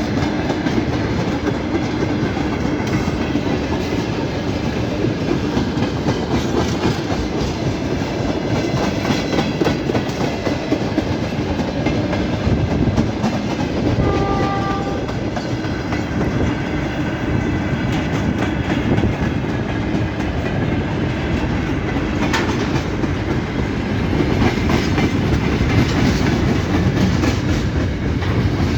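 Train running on the rails with a continuous rumble and the clickety-clack of wheels over rail joints. About halfway through, a short two-note signal tone sounds, stepping from higher to lower.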